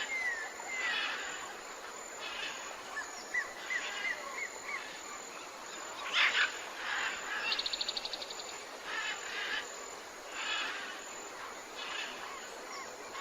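Tropical forest ambience with several birds calling over a steady background hiss. There are short whistled notes that curve up and down, repeated buzzy calls about every second, and a fast trill a little past the middle.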